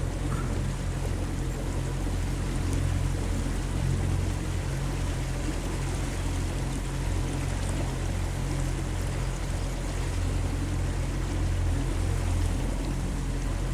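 Motorboat engine running steadily under way, a constant low hum, with water rushing along the hull.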